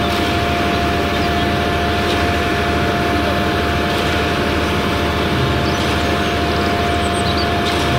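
Concrete mixer truck's diesel engine running steadily as the drum turns to discharge concrete down the chute, with a steady whine over the engine noise.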